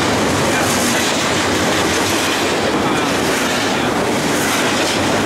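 Double-stack intermodal container cars of a BNSF freight train rolling past close by, a steady loud rumble and rattle of steel wheels on the rails.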